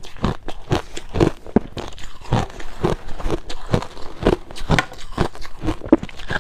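Close-up crunching and chewing of crushed ice in the mouth, a rapid irregular run of crisp crunches, several a second.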